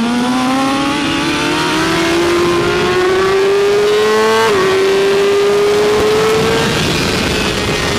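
BMW S1000RR inline-four engine pulling hard under acceleration, its note rising steadily through a gear. About halfway through it dips briefly at an upshift and climbs again, then fades near the end as the throttle eases.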